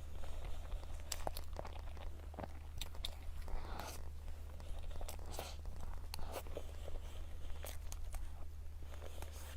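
Close-miked chewing and biting of a person eating dessert, with scattered sharp mouth clicks, smacks and crunches.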